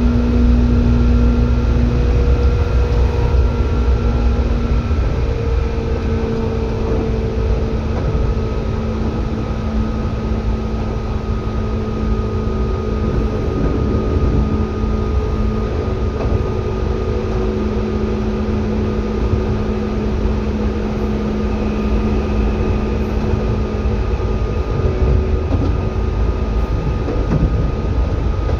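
Seibu 2000 series electric train running, heard from inside the car: a steady low rumble under several steady hum tones, which shift slightly in pitch about five seconds in.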